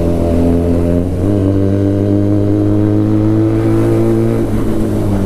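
Benelli TNT 300's parallel-twin engine through an Ixil full-system aftermarket exhaust, pulling on the road. The pitch changes about a second in, climbs slowly, then drops a little near the end as the throttle or gear changes.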